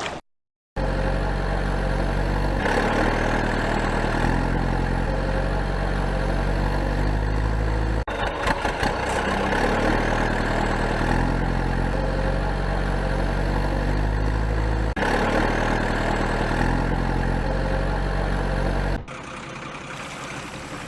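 Tractor engine sound running steadily, its revs stepping up and down every second or two, with abrupt jumps about 8 and 15 seconds in. It drops to a quieter hum near the end.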